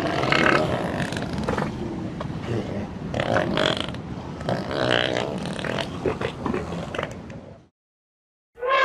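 Elephants making low, rough rumbling and grunting sounds, with scraping noises mixed in, for about seven and a half seconds before cutting off. Right at the end a loud, brassy elephant trumpet call begins.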